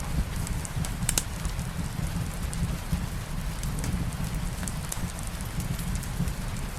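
Light rain falling steadily, mixed with a fireplace: scattered small crackles over a low rumble, with one sharper pop about a second in.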